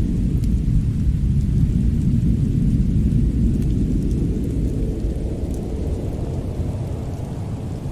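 Winter fireplace ambience: a steady deep rumble that swells slightly and then eases, with a few faint crackles on top.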